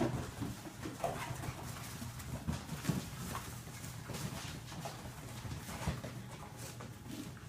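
A litter of puppies whimpering and squeaking in short, scattered calls.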